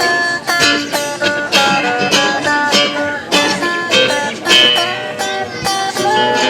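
Acoustic guitar picking a melody, several plucked notes a second.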